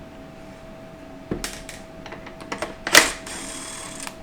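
Irregular metallic clicks and knocks of hand tools and small parts while bolts are removed from a 4L60E automatic transmission's valve body, with one loud clank about three seconds in.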